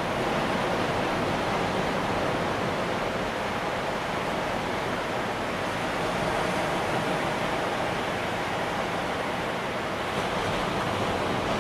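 Ocean surf washing in steadily beneath a pier, a continuous hiss of breaking waves that swells and eases gently.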